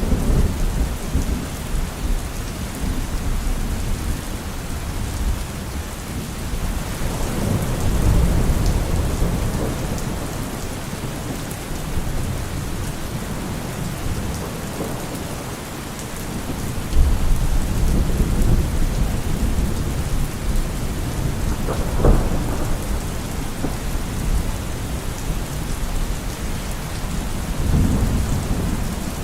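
Steady rain falling on forest trees and leaves, with low rolls of thunder swelling three times and a sharper crack about two-thirds of the way through.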